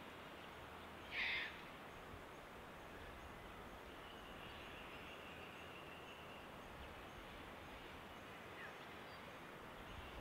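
Quiet bush ambience: a steady faint hiss, with one short, sharp bird call about a second in and a faint, thin, high steady note from about four to six seconds in.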